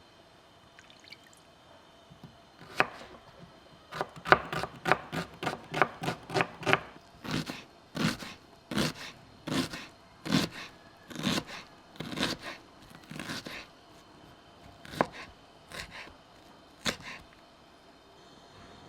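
Knife chopping food on a cutting board: a steady run of sharp strokes, then a few spaced strokes near the end.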